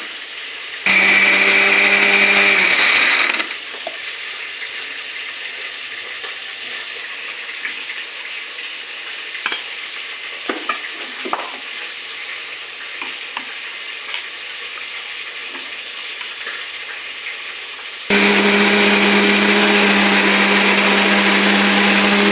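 Electric mixer grinder running in two spells, about two and a half seconds near the start and about four seconds at the end, with a steady motor hum, grinding a spice paste. In between, oil sizzles steadily in a pan, with a few light clicks of a spoon.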